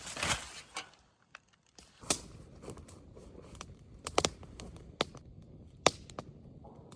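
Wood fire crackling, with sharp pops scattered irregularly through it, a few of them loud. A brief rustling scrape comes right at the start.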